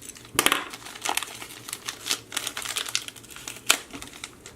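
Packaging of a silver bullion coin being opened by hand: irregular crinkling and crackling with sharp clicks, and one louder snap near the end.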